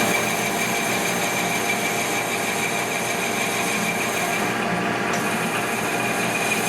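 Metal lathe running and cutting 6061 aluminium stock: a steady machining noise with a constant high whine.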